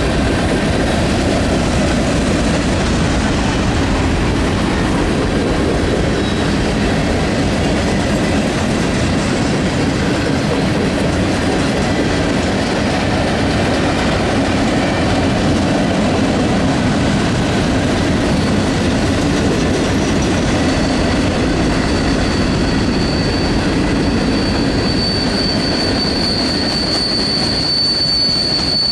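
Train rolling past: a steady rumble and clatter of wheels on rail. A thin, high wheel squeal comes in about two-thirds of the way through and grows louder near the end.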